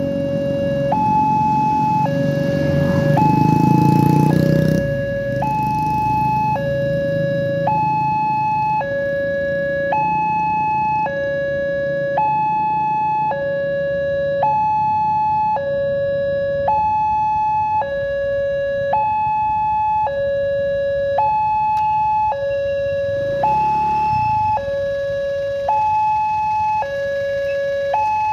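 Railway level-crossing warning alarm (genta) sounding: an electronic two-tone signal alternating between a lower and a higher tone about once a second, warning that a train is approaching. A louder low rumble of passing road traffic rises over it in the first few seconds, and a shorter one passes near the end.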